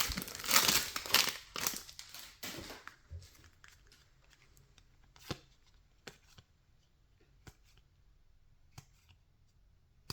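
The wrapper of a 2024 Topps Series 2 baseball card pack crinkling and tearing open, fading out about three seconds in. A few faint, sparse ticks follow as the cards are handled.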